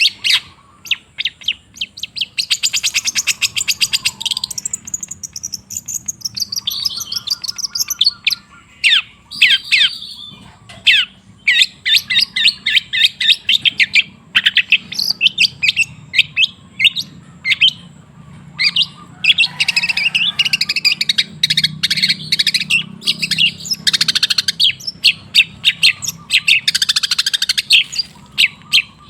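Long-tailed shrike (cendet) singing a fast, chattering song of rapid repeated chirps and trills, with a short lull about six seconds in.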